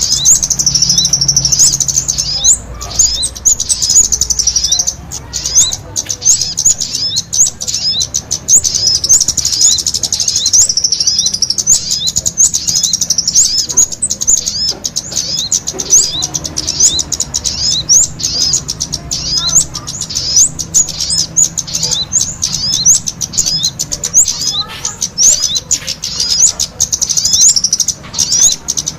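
Small songbirds known in Indonesia as kemade and sogon singing together: a fast, unbroken stream of high chirps and short sweeping notes.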